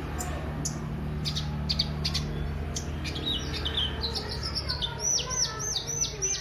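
Kolibri ninja, a small sunbird, singing: sharp high chips for the first few seconds, then a quick twittering run, then a string of about seven rapid down-slurred high notes near the end. A steady low hum runs underneath.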